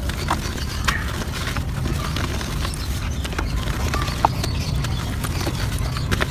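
Clumps of soft dirt being crumbled, giving irregular small crackles and snaps over a steady low rumble.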